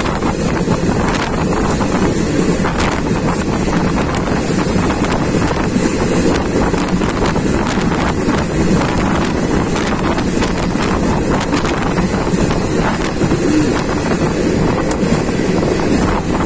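A passenger train running at speed, heard at an open doorway: steady rumble of the train with wind buffeting the microphone, and faint irregular clicks of the wheels on the rails.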